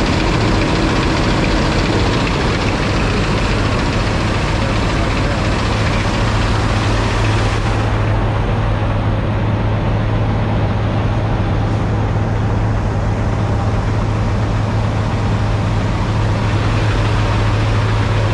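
Diesel semi-truck engine idling with a steady, deep hum.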